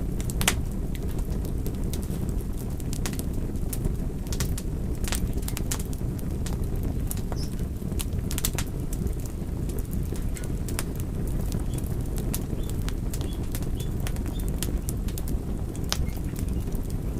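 Wood fire crackling: a steady low rumble of burning with sharp pops and snaps at irregular intervals.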